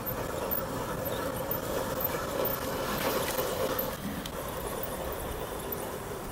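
Electric motor and gearbox of an RC scale crawler whining steadily as it drives, a little louder around three seconds in and then easing off.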